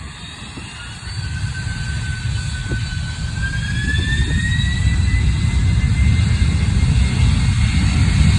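Boeing 767-300F freighter's jet engines spooling up to takeoff thrust at the start of the takeoff roll: a low rumble that builds steadily louder, with a whine that slowly rises in pitch.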